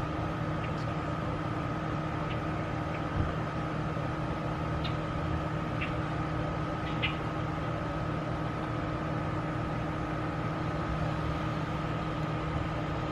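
Steady mechanical hum with a constant high whine over it, and a few faint short chirps or ticks.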